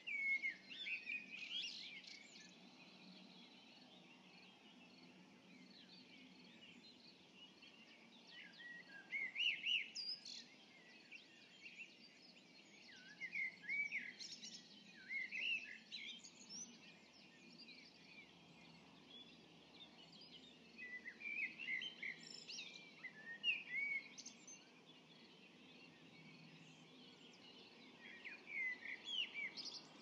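Songbird singing its dawn song: short warbling phrases of one to two seconds, about six of them, each several seconds apart, over a faint steady low background hum.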